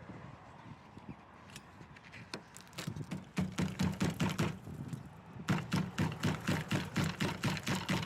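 A hand tool working the metal body of an old rusted bus in quick, even strokes, about four a second. It starts a few seconds in and pauses briefly around the middle, typical of knocking or scraping out rusted bodywork.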